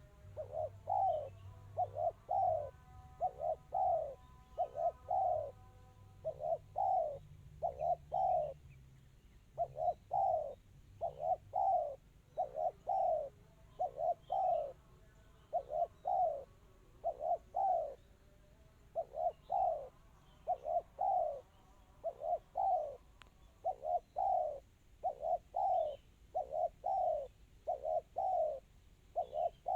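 Spotted dove (tekukur) cooing over and over in short, closely spaced coos, mostly in quick pairs and triplets with brief pauses: the clear, fast song that dove fanciers call 'kristal rapat cepat'.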